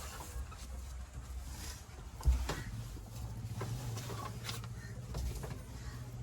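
A diesel engine running with a steady low hum, and a single heavy thump about two seconds in.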